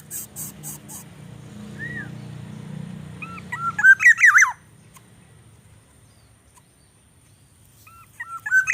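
Bird chirping: a single short chirp about two seconds in, then a loud quick run of rising and falling chirps, and another run near the end. A rapid high ticking fades out in the first second.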